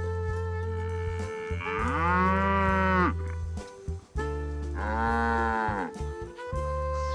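A cow mooing twice, two long calls each lasting about a second and a half, over steady background music.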